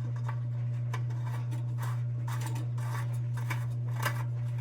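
A steady low hum under faint scraping and light clicks of small tin lantern parts being handled and fitted together.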